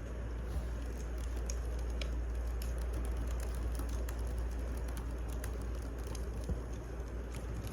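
Wood fire crackling: a steady low rumble with irregular small pops and snaps from burning logs.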